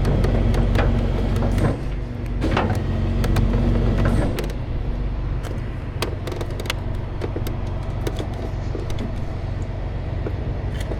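Tow truck engine running steadily while its hydraulics let the load down, louder for the first four seconds or so and then easing to a lower, steadier level. Scattered clicks and creaks of metal run through it.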